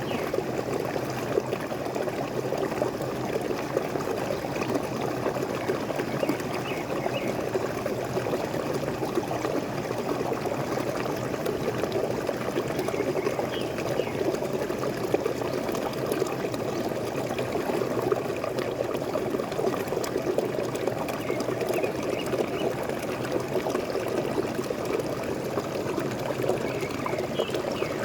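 Waterfall water pouring and splashing steadily and evenly, with faint bird chirps a few times in the background.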